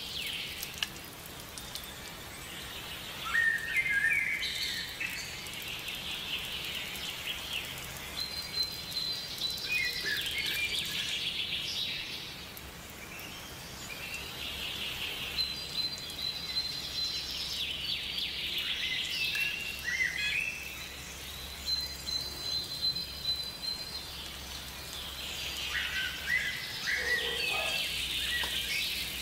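Birds chirping and singing in short calls and trills. A thin, high steady call returns about every seven seconds.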